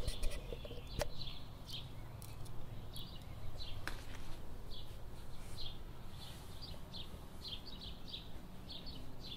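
A songbird chirping over and over in short, high chirps about one or two a second, with a low rumble underneath and a few sharp clicks near the start and about four seconds in.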